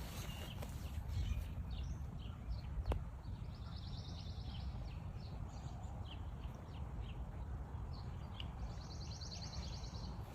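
Outdoor ambience: small birds chirping over a low steady rumble, with a rapid buzzy trill twice. A single sharp click comes about three seconds in.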